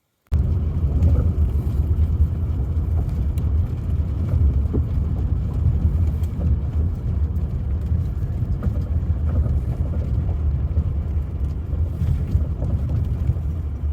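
Motor vehicle driving, a steady low rumble of engine and road noise.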